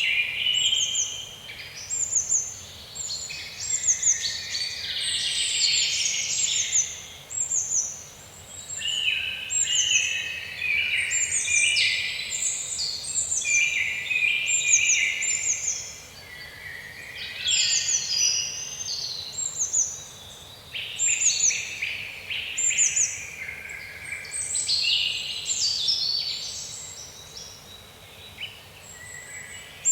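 Woodland birdsong: several small birds singing at once in a dense, continuous chorus of chirps and trills, with short high descending notes repeated over and over, over a faint steady background hiss.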